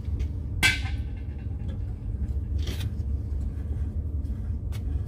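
Work noises at the plumbing of a well pressure switch: a sharp clank of metal on metal about half a second in, a short scrape near the middle and a click near the end, over a steady low rumble.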